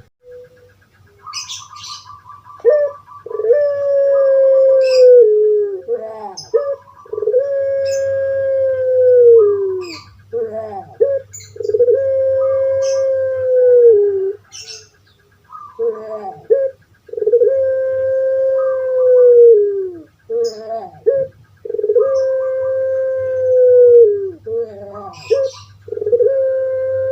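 Puter pelung dove (Barbary dove) cooing its long call over and over: each phrase opens with a few short rising notes, then a long held coo that drops in pitch at the end, about six times.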